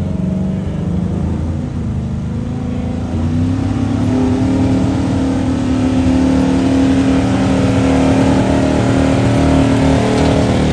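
Gas pickup truck engine running hard at high revs, rising in pitch and loudness about three seconds in and then held steady.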